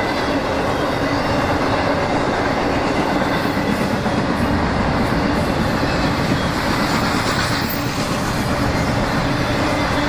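Freight train rolling past at close range: a steady rumble and rattle of cars and wheels on the rails.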